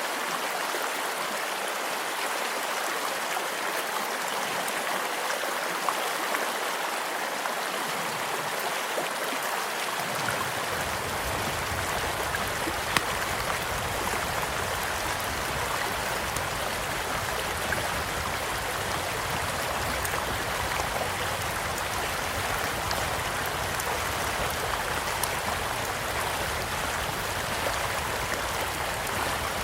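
A small stream flowing steadily, with scattered sharp crackles and pops from a campfire, the loudest single pop about thirteen seconds in. A low rumble joins about a third of the way through.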